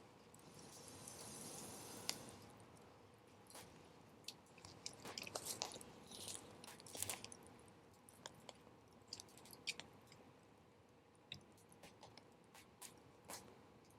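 Wood fire crackling softly with scattered sharp pops, busiest around five to seven seconds in, and a brief soft hiss in the first two seconds. The fire is burning low.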